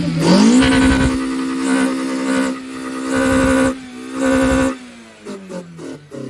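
Car engine revved up quickly and held at high revs for about four seconds, the note surging louder twice, then let back down toward idle near the end.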